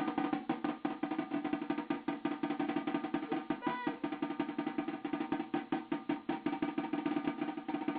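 Drum roll on a drum: fast, even strokes over a steady ringing tone, running without a break.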